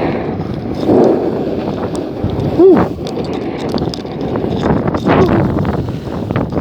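Wind rushing over the microphone of a snowboarder riding down the slope, loud and uneven. About two and a half seconds in, a short pitched sound rises and falls.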